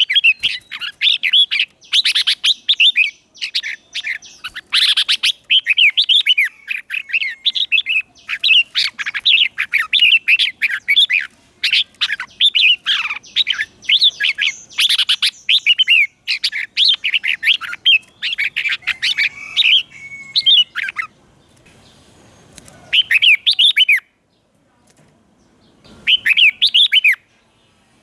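Red-whiskered bulbul singing a decoy song to call in wild bulbuls: rapid runs of bright, chirpy warbling phrases that break off about three-quarters through, then a short burst near the end.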